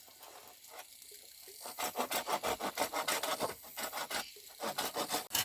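Hand saw cutting through wood in quick, even back-and-forth strokes. The strokes start about a second and a half in and pause briefly near the end.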